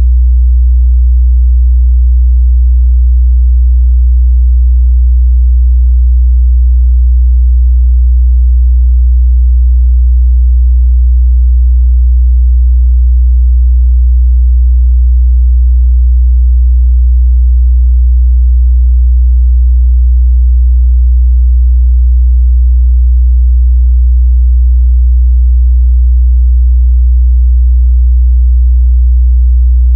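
A continuous 61 Hz sine-wave test tone: a single steady, loud low bass hum that holds its pitch and level without change.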